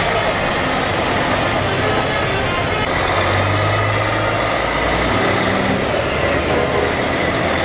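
Heavy trucks' diesel engines running as they pass in a parade, with a low engine note swelling about three seconds in and a higher one near the end.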